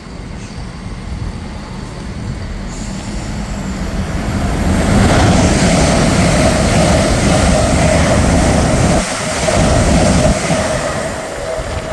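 Two coupled Class 805 bi-mode multiple units passing along the main line: the rush of wheels and air builds to a loud, steady sound with a hum under it, drops briefly about nine seconds in, comes back, then eases off as the train goes by.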